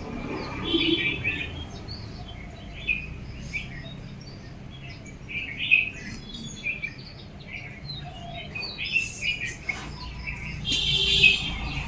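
Small birds chirping in short, irregular calls, with a denser, louder burst of twittering near the end.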